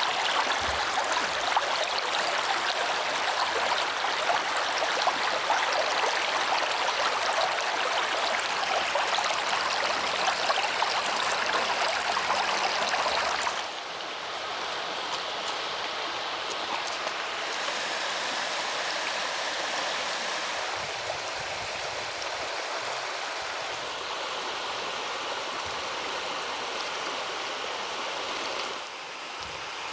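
Running water rushing steadily, like a stream or field channel flowing. It drops suddenly to a softer level about halfway through, and dips again briefly near the end.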